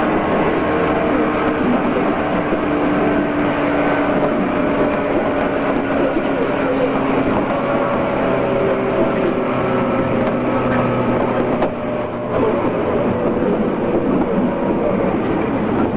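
JR East 113 series electric train running, heard from aboard on an old cassette recording: a steady rumble of wheels and running gear with the whine of the traction motors and gears slowly falling in pitch as the train slows. There is a brief dip in the noise about twelve seconds in.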